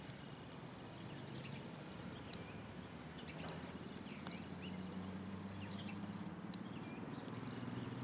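Small birds chirping, with short high calls and quick dipping notes coming every second or so, over a low steady hum.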